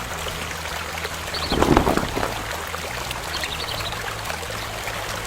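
Running water trickling steadily, swelling louder briefly about a second and a half in, with faint high chirps every couple of seconds.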